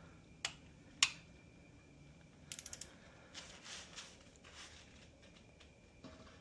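Hand tools being worked on an engine block: two sharp metal clicks, then a quick run of ratchet clicks midway, followed by a few soft scrapes.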